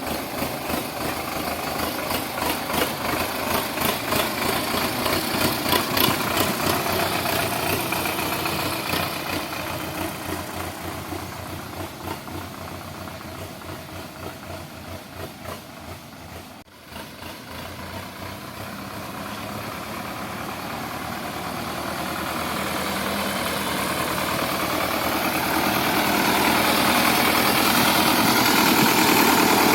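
Sonalika DI 750 tractor's diesel engine running with a fast pulsing beat. It fades gradually, breaks off briefly about two-thirds of the way in, then grows steadily louder again.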